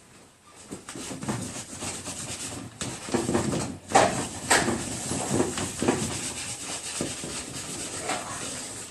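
A drawing tool scratching across paper in quick, irregular strokes, starting about half a second in.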